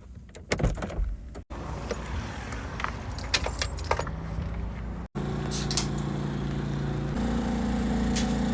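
Keys jangling with small handling clicks, then a steady engine hum that steps up to a higher pitch about seven seconds in.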